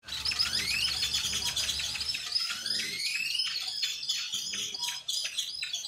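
Birds chirping, with two long rising whistled notes in the first three seconds and quick high chirps throughout.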